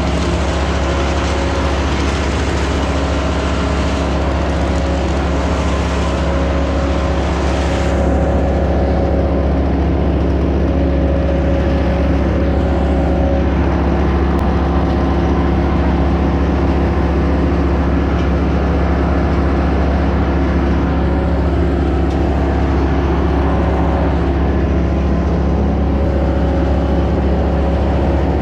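A large engine running steadily at a constant speed. A hiss above it fades away about eight seconds in.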